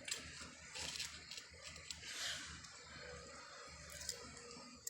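Faint rustling and scraping of paper and gear being handled, a few soft scuffs over a low background rumble.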